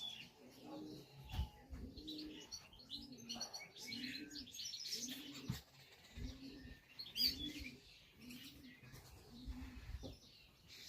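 Pigeon cooing, a steady run of low coos that swell and fall, roughly one every three-quarters of a second, with small birds chirping and twittering over it.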